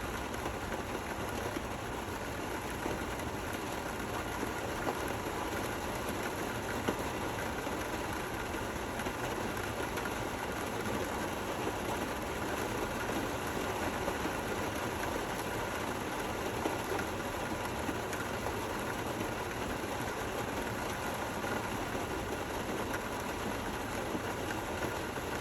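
Steady, gentle rain falling: an even, unbroken hiss.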